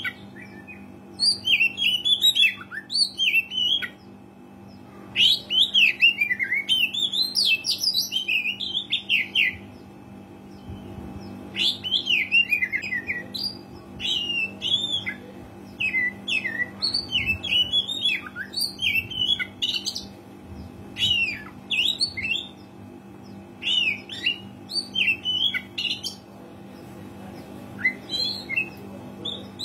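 Oriental magpie-robin (kacer) singing in full song: bursts of rapid, varied whistles and chirps a few seconds long, with short pauses between them. A steady low hum runs underneath.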